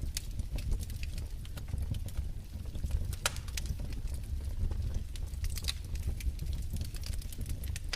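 Wood fire crackling: irregular sharp pops and snaps, several louder ones, over a steady low rumble of flames.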